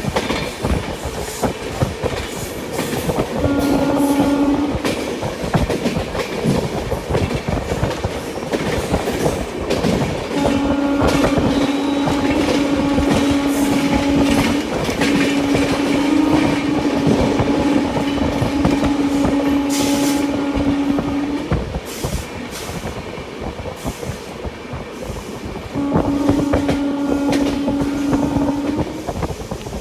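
Locomotive horn sounding over the rattle of the Sampoorna Kranti Express running along the track. A short blast comes about three seconds in, then long, steady blasts with brief breaks from about ten to twenty-one seconds, and another blast near the end.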